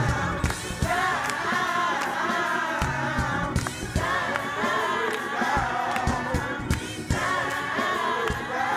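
Gospel choir singing in several voices over band accompaniment, with a low bass line and a steady drum beat.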